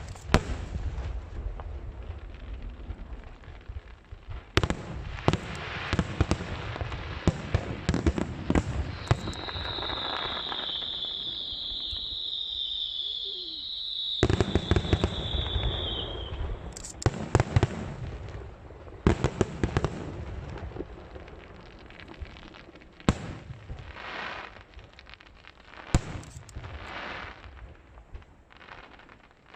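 Aerial fireworks display: repeated sharp bangs of shells bursting with crackling in between, and a wavering high-pitched whistle lasting several seconds near the middle.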